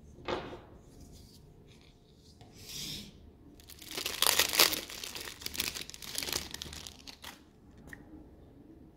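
Packaging being crinkled and torn open: a brief rustle at the start, another about three seconds in, then a longer, louder stretch of crinkling and tearing from about four seconds to seven and a half.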